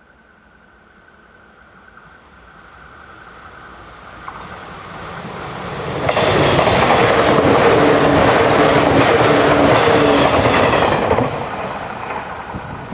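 JR 485 series electric limited express passing close by at speed. It grows louder for several seconds, then about six seconds in becomes a loud rush with rapid clatter of wheels over the rail joints over a steady hum. It falls away sharply about eleven seconds in as the tail goes by.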